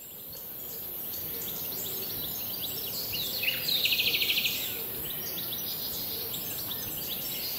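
Birds chirping and calling over a steady high hiss, fading in over the first couple of seconds. A fast trill about three and a half seconds in is the loudest part.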